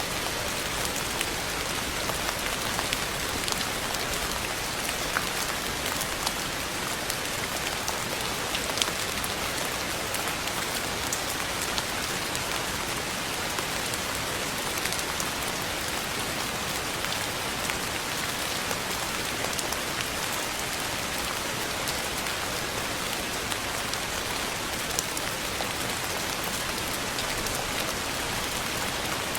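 Steady rain falling on a surface, an even hiss with many distinct drops spattering through it.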